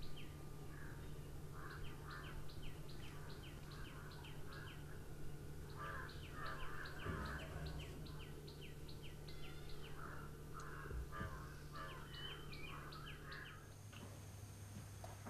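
Birds chirping outside, in quick runs of short high falling notes with lower calls in between, over a steady low hum. The birdsong stops near the end.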